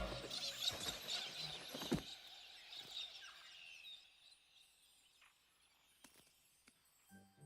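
Scattered rustling and crackling with short high bird chirps, dying away to quiet over the first few seconds. Soft music comes in near the end.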